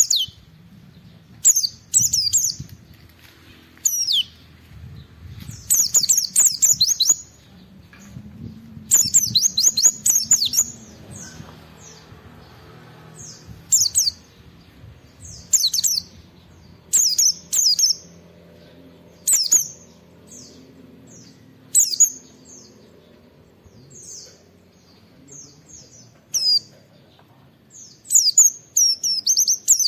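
White-eye (pleci) in full song, giving short bursts of rapid high twittering phrases every second or two, with softer single calls between them.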